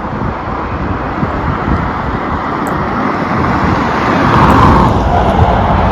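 Road traffic on a main street: a steady rumble of passing cars and trucks, swelling as a vehicle goes by about four seconds in.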